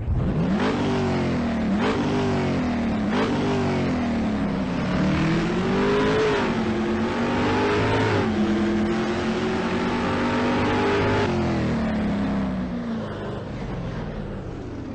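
An engine revving: several quick blips of rising pitch in the first few seconds, then slower rises and falls in speed, easing down and fading near the end.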